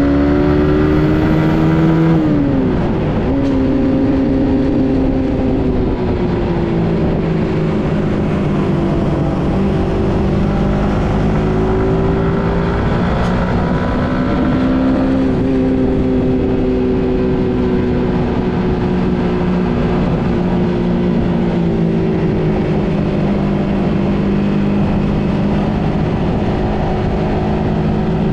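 Suzuki GSX-S150's single-cylinder engine running while the motorcycle is ridden. Its pitch drops sharply about two seconds in and again around the middle, and otherwise rises and falls gently with the throttle, over a low steady rush of noise.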